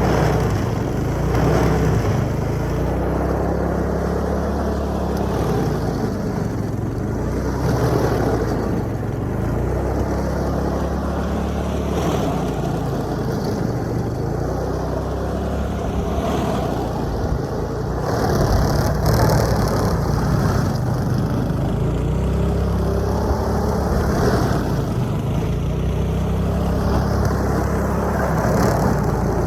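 A vehicle engine running steadily, its note rising and falling every few seconds.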